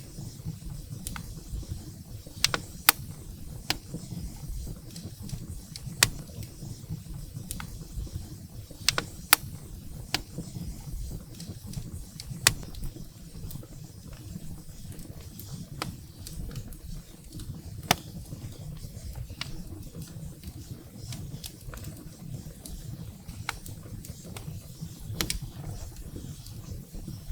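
Wood fire burning in a fireplace: a steady low rumble of the flames with sharp crackles and pops from the burning firewood at irregular intervals, a handful of them louder.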